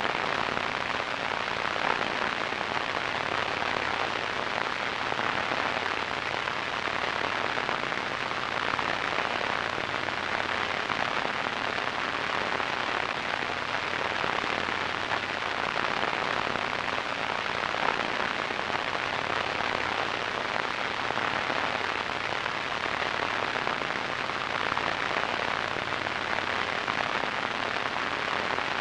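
Radio static: a steady, even hiss with most of its energy in the middle and upper-middle range.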